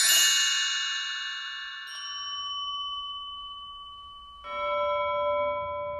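Bell-like chime tones, struck and left to ring out with a slow fade. There is a faint second strike about two seconds in, and a stronger, lower-pitched strike about four and a half seconds in that keeps ringing.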